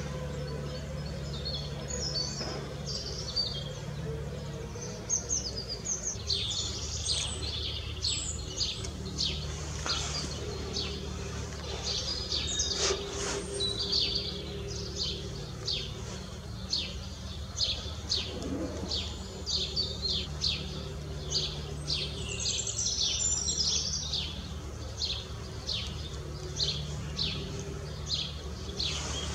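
Songbirds chirping and singing, many short high calls in quick succession that grow busier after the first few seconds, over a steady low hum.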